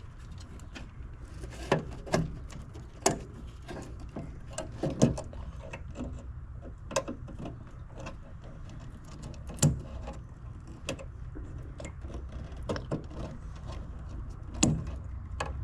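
Scattered irregular clicks and knocks of hand work with tools and small parts, over a steady low hum.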